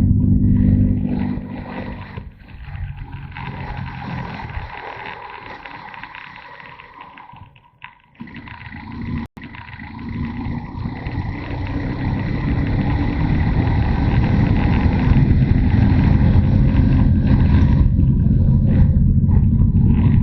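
Motorcycle engine running under load, then the throttle closes about a second in and it drops to a low, quiet run that nearly fades out about eight seconds in. It then pulls again and builds back up to a steady, loud run for the second half, with a single sharp click just after it picks up.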